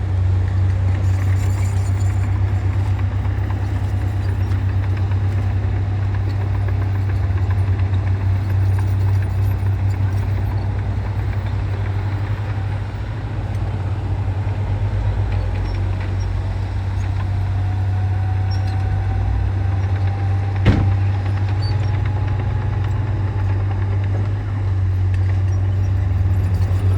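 Heavy diesel engine of earthmoving machinery running steadily under load. There is a single sharp knock about three-quarters of the way in, and a faint, slowly rising whine in the second half.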